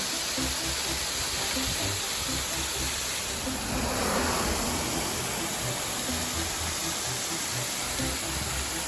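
Steady rushing roar of a waterfall, swelling briefly about four seconds in.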